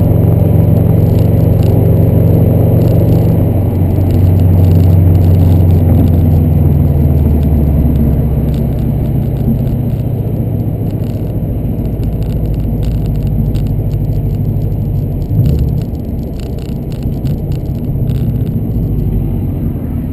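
Subaru WRX turbocharged flat-four engine and exhaust running at a steady engine speed with a deep drone. It eases off and grows gradually quieter over the second half, with a brief bump about fifteen seconds in.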